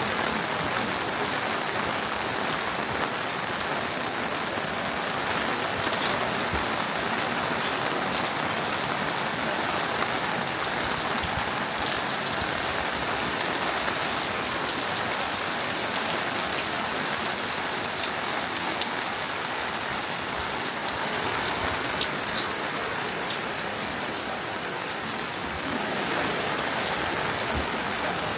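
Steady rain falling, a continuous patter with scattered individual drops ticking.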